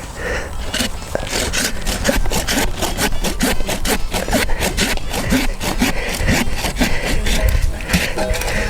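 Hand saw cutting through a tree branch in quick, regular back-and-forth strokes.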